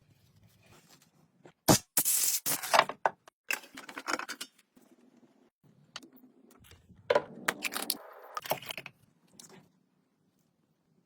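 Workshop handling noises: a sharp knock followed by scraping and clinking, like metal parts being moved and set down, in two bursts a few seconds apart.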